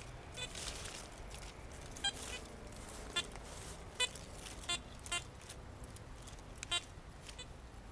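Metal detector giving about seven short, high electronic beeps at uneven intervals, its signal for metal in the ground.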